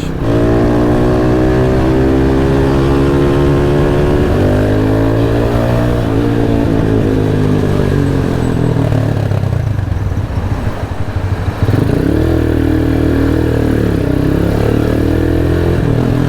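Motorcycle engine running while riding in slow stop-and-go traffic, heard close up from the bike. Its pitch falls as the bike slows over the first few seconds, rises again as the throttle opens, turns rougher in the middle, and picks up again after about twelve seconds.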